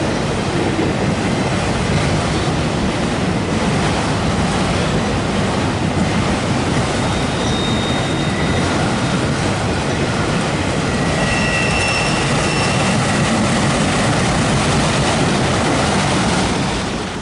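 Autorack freight cars rolling past on jointed rail: a steady rumble and clatter of steel wheels, with a few faint, brief wheel squeals past the middle. The sound fades out at the very end as the last car goes by.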